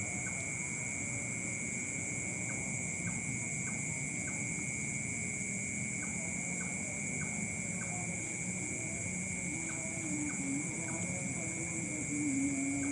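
Steady, high-pitched chorus of night insects chirring without a break, with faint ticking underneath. A low wavering hum comes in near the end.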